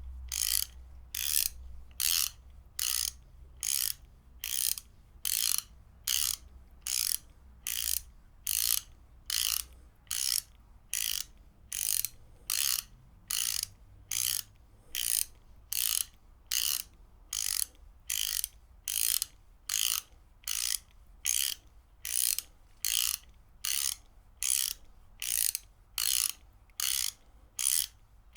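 Ratchet wrench being worked back and forth, the pawl giving a short burst of clicking on each stroke, about three bursts every two seconds in an even rhythm.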